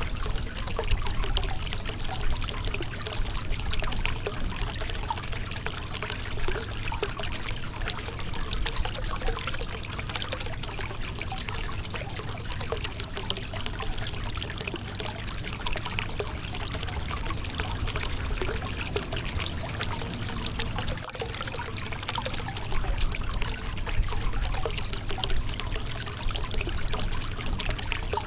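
Shallow river water running and splashing over rocks, a steady babbling rush with a low rumble beneath.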